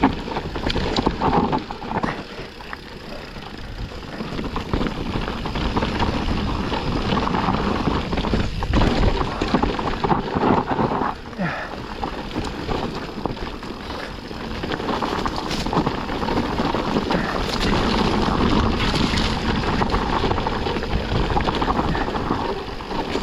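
Yeti SB160 mountain bike riding down a dry, rocky trail: tyres rumbling over dirt and stones, with frequent rattles and knocks from the bike, and wind buffeting the microphone.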